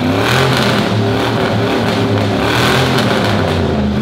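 Ford Pinto race build's engine revving up and falling back in swells about every two seconds, surging unevenly, a sign the builders take for fuel starvation from a kinked line, a low tank or a failing fuel pump.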